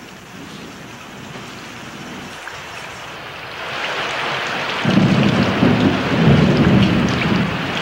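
Heavy rain growing louder, then a long roll of thunder starting about five seconds in.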